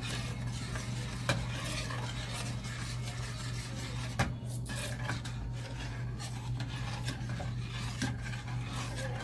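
A utensil stirring and scraping in a pot of boiling mango barbecue sauce, with a few sharp clinks against the pot, over a steady low hum.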